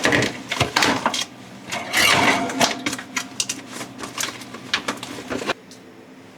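Rapid clatter of knocks, clicks and rustling as household items are handled and set down, breaking off abruptly about five and a half seconds in to leave a quiet steady hum.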